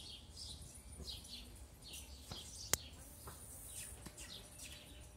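Small birds chirping repeatedly, quick high chirps that fall in pitch, several each second. One sharp click, the loudest sound, comes about two and a half seconds in.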